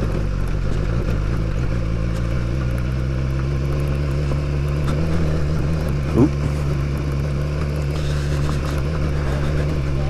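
BMW S1000XR's inline-four engine running steadily at low revs while the motorcycle climbs. A short rising sound stands out about six seconds in.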